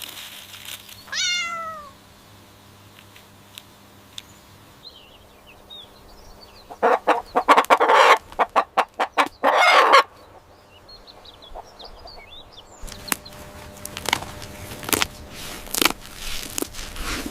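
A chicken clucking in a quick run of loud clucks for about three seconds midway, after a short falling cat meow about a second in. Faint chirps come before and after the clucking, and light scratching and rustling follows near the end.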